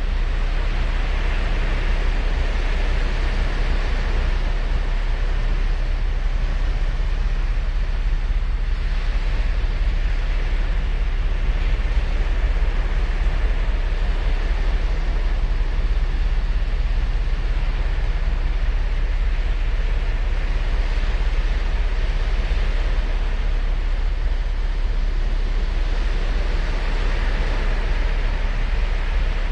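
Ocean surf breaking and washing up a beach, a continuous hiss that swells and fades every several seconds over a steady low rumble.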